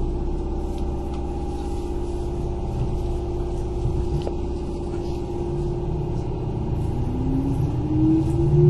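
Kintetsu 8000 series electric train running, heard inside the car: steady rumble of the wheels on the track with a held hum. From about six and a half seconds in, a motor whine climbs steadily in pitch as the train picks up speed.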